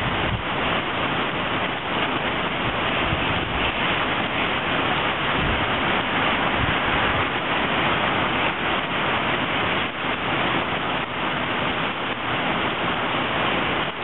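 Rain falling steadily on a flooded street and the pavement around it, a constant even hiss.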